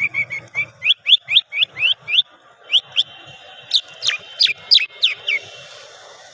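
A lark kept as a songbird singing a run of short whistled notes, about three a second. The notes first glide upward, then from about 4 s in come louder notes that sweep downward, before the song stops.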